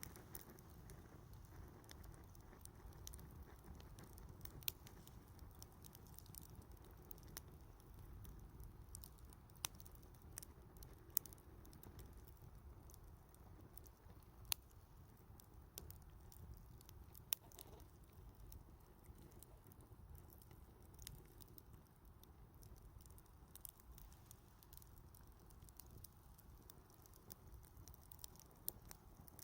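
Wood fire crackling quietly: irregular small crackles over a low rumble, with a few sharper pops scattered through.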